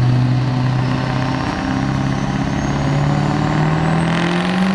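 Diesel pickup truck engine working hard on a pull-sled run, its pitch climbing steadily through the second half as the revs rise, with a thin high whine rising along with it.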